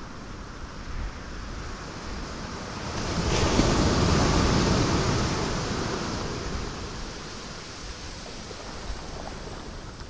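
Sea waves breaking on rocks over a steady surf wash: one wave surges in about three seconds in, loudest for a second or two, then drains away.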